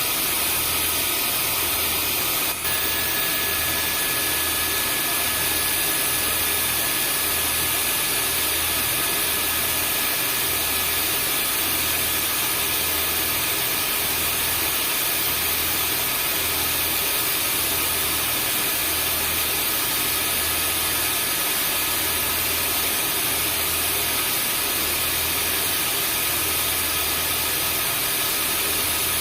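Vacuum cleaner running steadily, a constant whooshing motor noise with a low hum that pulses about once a second. A brief dip about two and a half seconds in.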